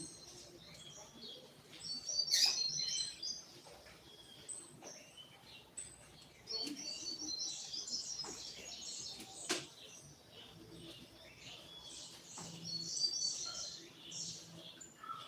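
Double-collared seedeater (coleiro) singing its short 'tui-tui' song: quick, high repeated phrases in three bouts a few seconds apart. A few sharp clicks fall among them.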